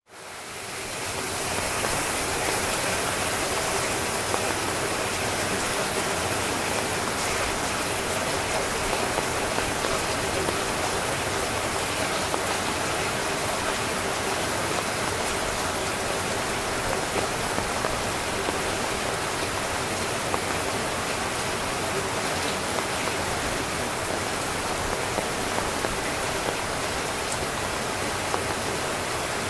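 Heavy rain drumming steadily on a tent's fabric, a dense patter of drops. It fades in over the first second or two.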